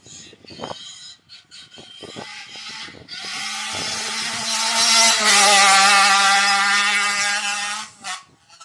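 Small motorbike engine running hard at high revs, starting about three seconds in. It gets louder, drops slightly in pitch about halfway through, and cuts off suddenly near the end.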